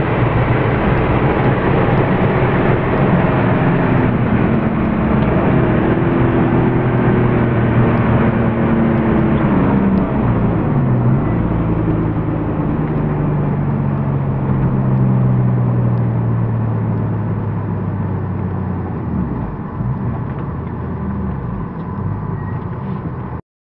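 Porsche 993 Carrera 4's air-cooled flat-six heard from inside the cabin, pulling up through the revs, then a gear change about ten seconds in. After that the engine note falls steadily and grows quieter as the car slows. The sound cuts off suddenly near the end.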